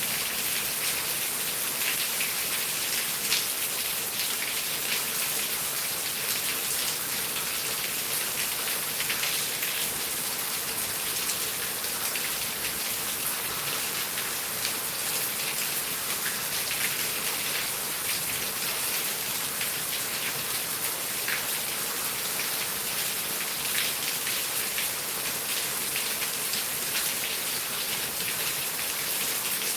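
Heavy rain falling steadily, a dense hiss of drops pattering on surfaces with scattered individual drop ticks.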